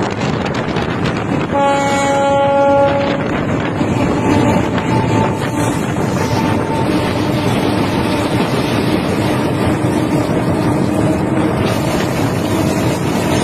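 Train running on the rails with a steady rumble and rattle. Its horn sounds once, a single blast of about a second and a half, starting about a second and a half in.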